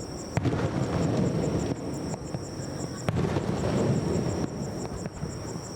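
Aerial fireworks shells bursting, with sharp bangs about half a second and three seconds in over a continuous rumble of further bursts and their echoes.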